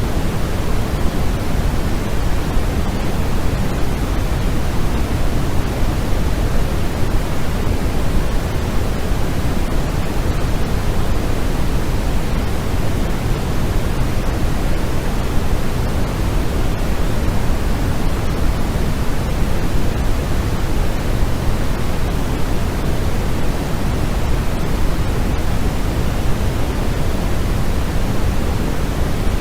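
Steady electronic noise played as a sleep aid: an even, unbroken hiss, heavier in the low end than pure white noise, like pink noise.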